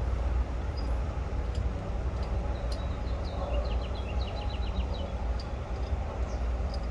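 A steady low outdoor rumble, with a bird singing a quick run of short falling notes about three seconds in, and a few faint clicks.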